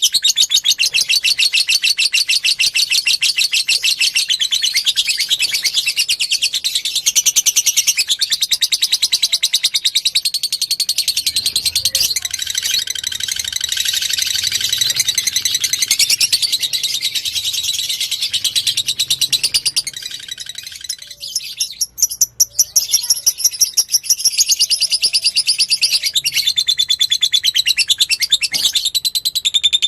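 Fighter lovebird singing a long, fast chattering song of high, rapidly repeated notes, briefly breaking off a little after twenty seconds before carrying on.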